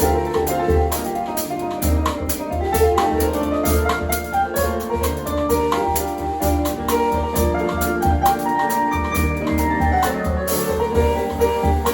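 Small jazz band playing live, with alto saxophone, piano, keyboard and drum kit in the lineup. The drums keep a steady beat under a low bass pulse while many quick, bright pitched notes run over the top.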